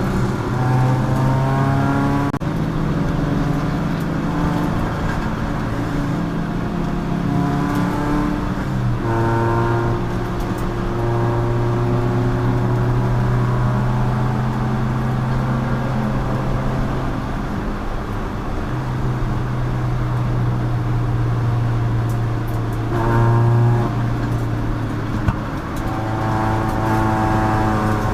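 Race car engine running hard at speed, rising in pitch as it accelerates through the gears several times and holding steady between.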